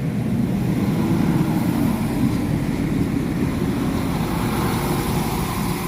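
Northern Ireland Railways diesel multiple-unit train running, a steady low rumble, easing slightly near the end.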